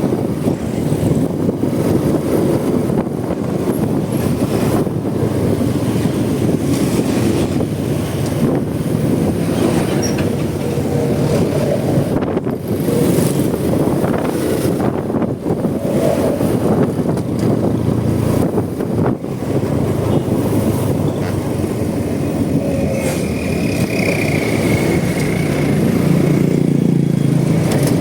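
Loud, steady riding noise from a Honda Supra X 125 motorcycle under way: wind rushing over the microphone mixed with the engine and tyre noise.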